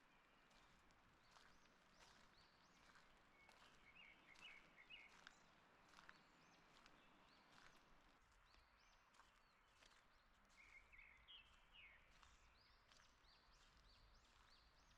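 Faint forest birdsong: short, quick chirping phrases from a small songbird, once a few seconds in and again about two-thirds of the way through, over a low hiss with scattered small clicks.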